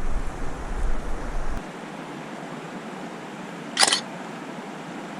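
Steady rush of river water, with a low wind rumble on the microphone that drops away about a second and a half in. Nearly four seconds in comes a single short, sharp camera-shutter click.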